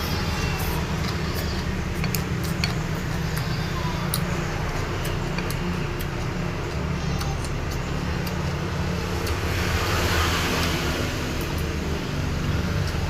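Steady low rumble with scattered light clicks of eating at a meal, utensils and dishes.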